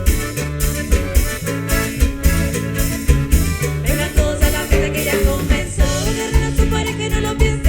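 Folk band with accordion, guitar, bass guitar and drum kit playing a song with a steady beat.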